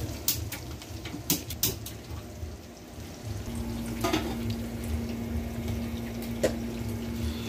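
Chicken pieces frying in oil in a small pan on a gas burner, sizzling steadily, with several sharp clinks of metal utensils and pans. A faint steady hum comes in about three and a half seconds in.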